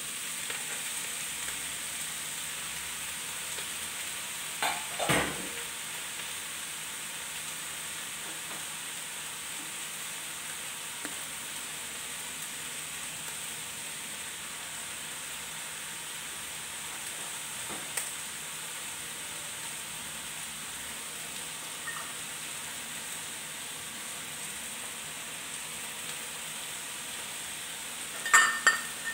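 Vegetables and bean sprouts sizzling steadily in a steel wok over a gas flame, with a few sharp knocks on the wok about five seconds in and again near the end.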